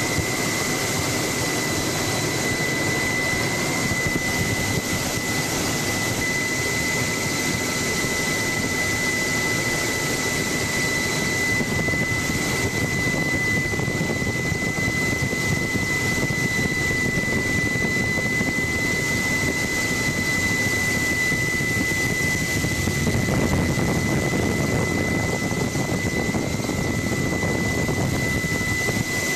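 Helicopter in flight heard from inside the cabin: steady turbine and rotor noise with a constant high whine.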